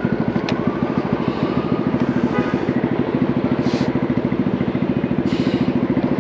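Honda Navi's single-cylinder four-stroke engine running through a Vance & Hines aftermarket exhaust, a steady fast putter with no change in engine speed. Two short hisses cut in briefly over it, about halfway through and again near the end.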